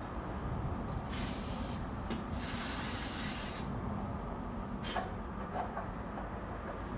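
Two hissing spray bursts, the first about a second long and the second a little longer, over a steady low rumble, with a short sharp click about five seconds in.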